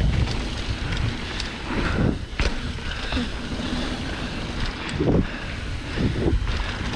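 Wind buffeting the microphone while riding a mountain bike down a dirt trail, with a low rumble from the tyres and scattered knocks and rattles over bumps.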